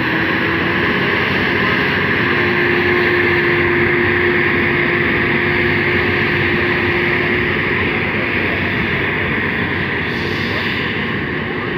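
A pulling tractor's engine runs flat out under load: a loud, steady noise with a slight rise in pitch about two seconds in, easing a little near the end.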